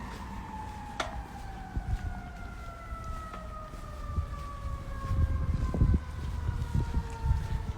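Fire truck siren wailing, its pitch falling slowly and steadily, with a sharp click about a second in and low rumbling thumps in the second half.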